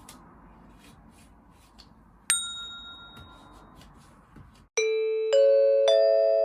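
A single bright ding about two seconds in, then, after a brief silence, a four-note chime rising in pitch, one note about every half second, each note ringing on.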